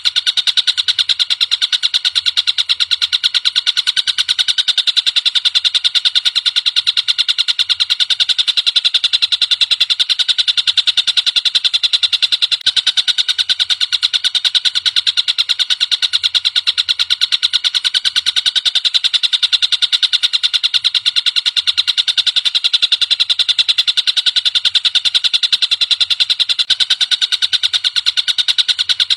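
Tengkek buto bird song: a very rapid, high-pitched trill repeated without a break, played as a masteran tutoring recording for caged songbirds.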